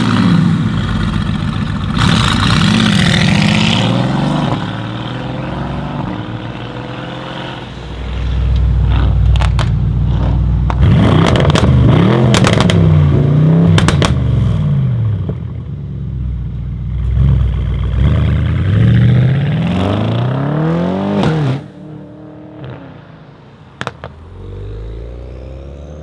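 Tuned 1000 hp GAD Motors Mercedes-AMG E63 S 4Matic+ twin-turbo V8 being revved repeatedly while standing: the engine pitch rises and falls again and again, with several sharp cracks from the exhaust. After about 21 seconds it drops back to a lower, steadier running sound.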